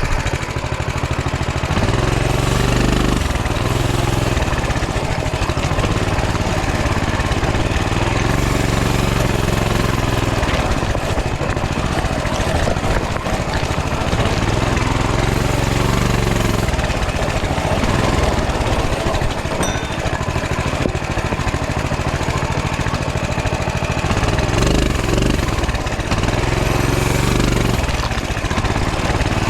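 Coleman CT200U mini bike's small single-cylinder four-stroke engine running under load over rough rock, its revs rising and dropping back every few seconds as the throttle is worked.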